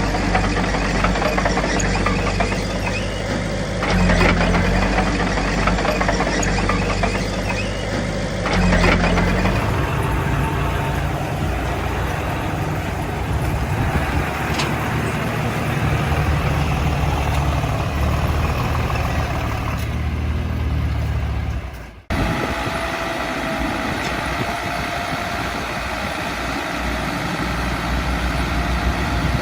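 Heavy diesel engines of earthmoving machinery running steadily, with two short rises in engine speed, about four and nine seconds in. The sound drops out abruptly about two-thirds of the way through, then a different steady engine note carries on.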